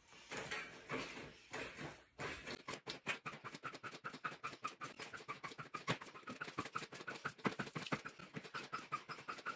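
Springs of a mini fitness trampoline squeaking and creaking in a steady rhythm as someone bounces on it. The rhythm starts about two seconds in and runs about three bounces a second.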